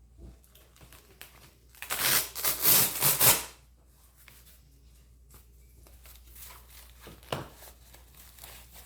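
Hook-and-loop (Velcro) fastener of a blood pressure cuff ripping open as the cuff is taken off the arm: a loud ripping rasp of about a second and a half, in several quick pulls. Faint rustling follows, with a single sharp tap near the end.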